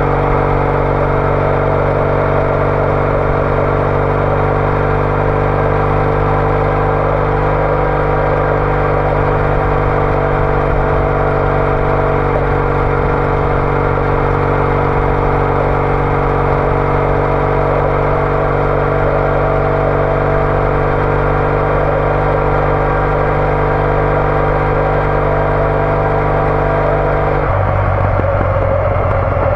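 Triumph Bonneville T214's 865 cc parallel-twin engine through an aftermarket TOGA exhaust, running at a steady cruising speed. The steady note changes abruptly near the end.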